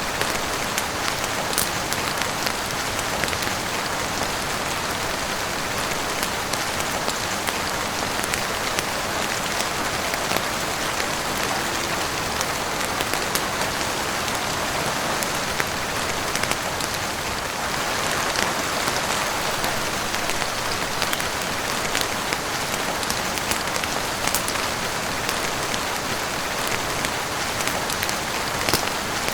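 Steady heavy rain falling on a roof and windows: a dense, even hiss with many sharp scattered ticks of single drops, swelling slightly about two-thirds of the way through.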